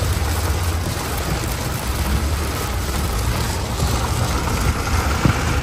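Heavy rain pelting the roof and windshield of a car, heard from inside the cabin as a dense, steady hiss over a low rumble. There is a single brief knock about five seconds in.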